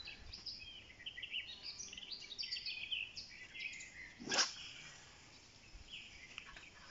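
Faint birdsong: many short high chirps and twitters, with one brief sharp sound a little past four seconds in that stands out as the loudest moment.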